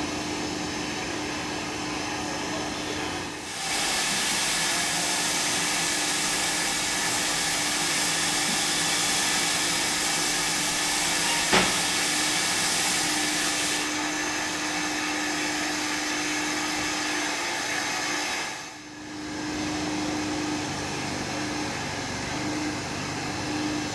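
Steam locomotive hissing steam: a loud steady hiss starts suddenly a few seconds in over a steady hum, with one sharp click near the middle and a brief dip in level later on.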